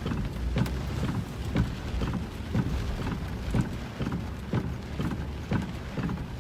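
Windshield wipers beating steadily inside a truck cab in a heavy downpour, a stronger stroke about once a second with a lighter one between, over rain on the truck and a low road rumble.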